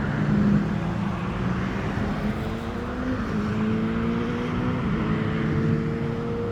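A motor vehicle's engine running close by, its steady hum slowly rising in pitch, over street traffic noise.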